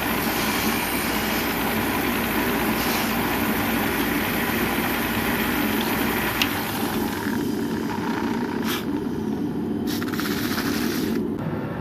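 Steady machine-like rumble and hiss, with a sharp click about six seconds in; the higher hiss thins out in the second half.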